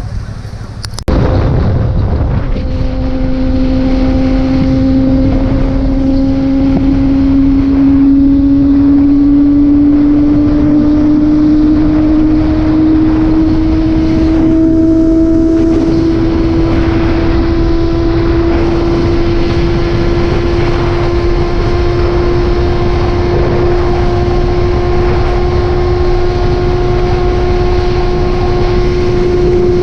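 A motorcycle engine running steadily at road speed, its note creeping slowly higher as the bike gathers speed, over a heavy rumble of wind. The sound starts abruptly about a second in.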